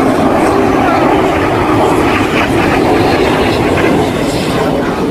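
Jet aircraft flying past at an airshow: loud, steady jet engine noise with no break.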